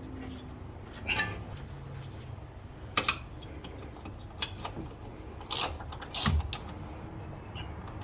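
Metal tools and parts being handled, with a few sharp metallic clinks and knocks spread over the few seconds.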